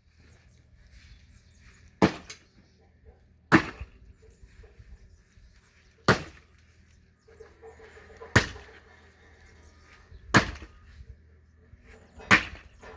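Firewood being split by hand: six sharp strikes about two seconds apart.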